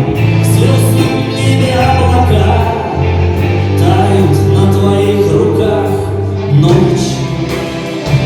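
Live rock band playing a song, with strong sustained bass and a sung vocal line over it.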